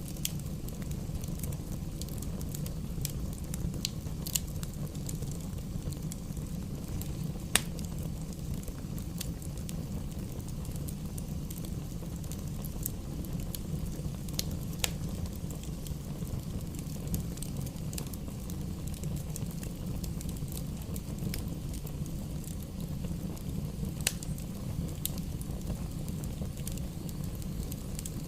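Wood fire burning in a fireplace: a steady low rumble of flame with irregular sharp crackles and pops. The loudest pops come about a third of the way in and again near the end.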